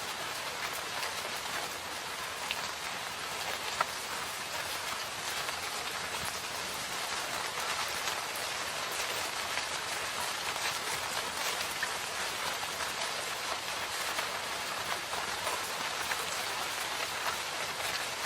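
Steady rain falling in a forest, an even hiss of drops with scattered individual drips.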